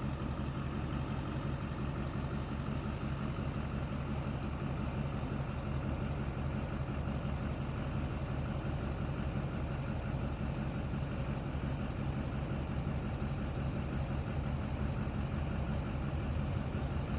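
A truck engine idling steadily, a low even rumble that holds the same pitch throughout.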